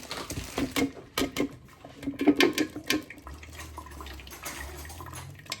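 Blended juice being strained: liquid pouring and splashing through a strainer, with a spoon clinking and knocking against it. A steady low hum comes in a little past halfway.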